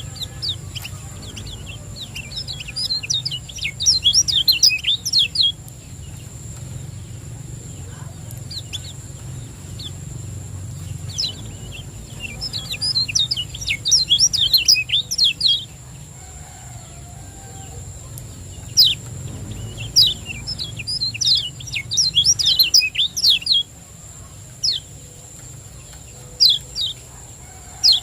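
Kecial kuning, a small Lombok white-eye, singing in three fast bouts of rapid, high chirps, with single notes between the bouts. This is the quick, rapid-fire 'ciak jos' song used as a training recording to get caged birds to sing.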